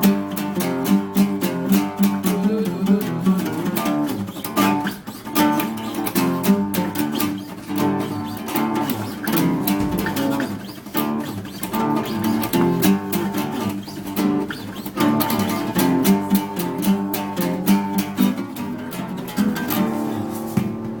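Two acoustic guitars playing a duet, fast picked and strummed notes.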